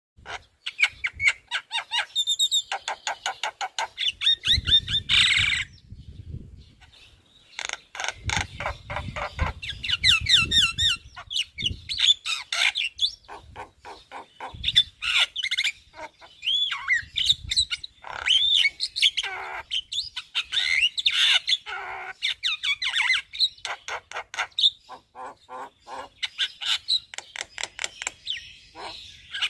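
Javan myna singing a long, varied song of rapid clicking runs, chatter and rising and falling whistles, with only brief pauses. The song is full of mimicked phrases.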